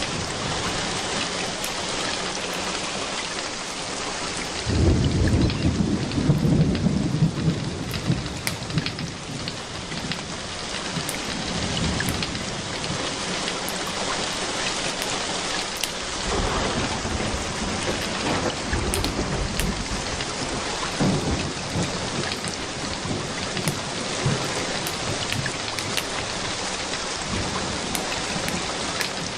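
Steady rain falling, with a roll of thunder rumbling in about five seconds in and lasting a few seconds, and fainter rumbles of thunder later on.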